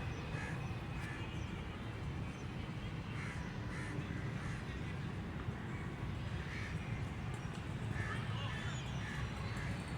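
Birds calling, short calls repeated at irregular intervals, a few seconds apart and sometimes in quick pairs, over a steady low rumble.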